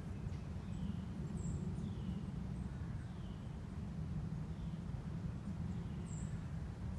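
A small songbird repeating a short downslurred call about once a second, with two brief high chips at about one and a half and six seconds in, over a steady low rumble.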